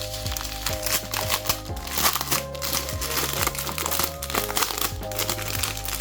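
Packaging crinkling and crackling in irregular strokes as it is handled and opened, over background music with held notes.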